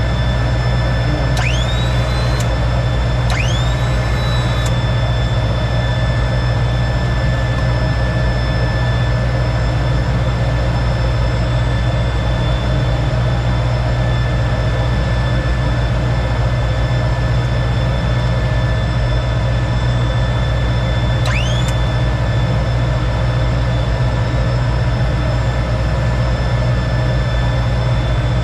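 Steady cockpit noise of a T-33 jet trainer with its Allison J33 turbojet running: a loud low drone under a steady high whine. Short rising tones sound twice about two and three seconds in, and once more about 21 seconds in.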